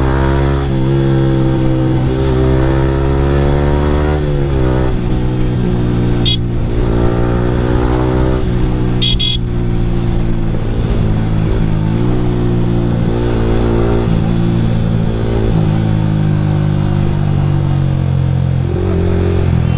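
Yamaha R15 V3's single-cylinder engine through an Akrapovic R9 aftermarket exhaust, under way on the road. Its pitch climbs for about four seconds, drops sharply at a gear change, then runs on fairly steadily with small rises and dips.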